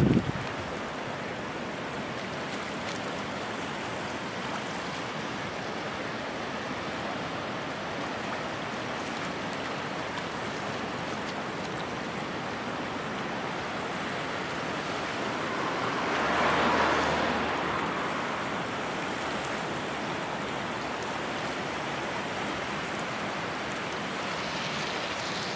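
Steady rushing of a river in typhoon flood, its water high over the riverbank park. About two-thirds of the way through, a louder swell rises and fades over a few seconds.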